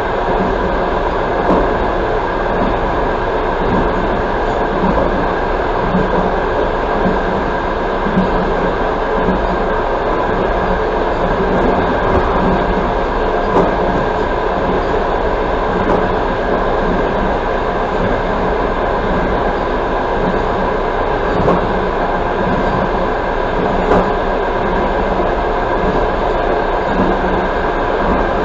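Passenger train running at speed, heard from inside a carriage near the window: a steady rumble of wheels on the rails with a continuous running hum and occasional faint clicks from rail joints.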